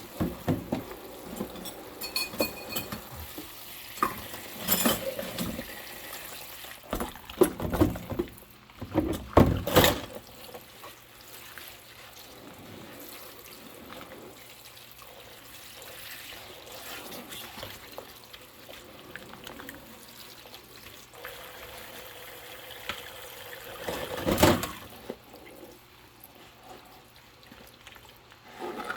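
Dishes being washed by hand in a sink: water running and splashing, with a run of knocks and clatters of dishes in the first ten seconds and one more loud clatter near the end.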